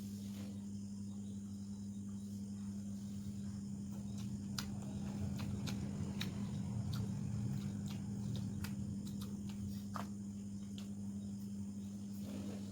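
Eating sounds, short mouth clicks and chewing, scattered over a steady low hum.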